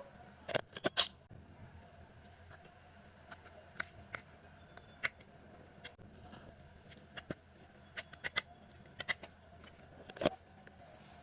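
Irregular sharp clicks and taps, a loud cluster about a second in, then scattered ones with a few brief high rings.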